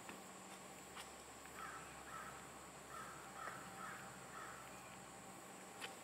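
A bird calling faintly in the distance, about six short harsh calls in quick succession, with a couple of faint clicks.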